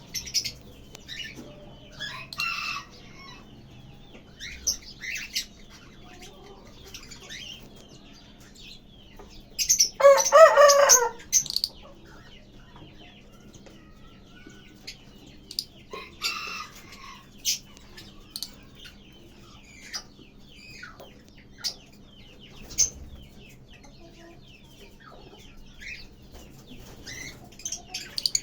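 Lovebirds chirping, with short, scattered calls, and one louder, longer call about ten seconds in. A faint steady hum runs underneath.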